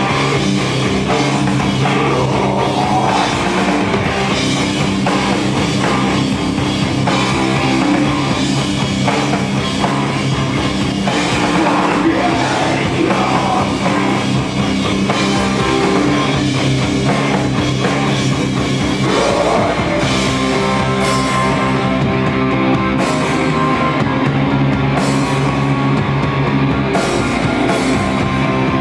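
Rock band playing live, drum kit over held, sustained chords. About twenty seconds in, the steady cymbal wash gives way to separate, spaced hits while the chords ring on.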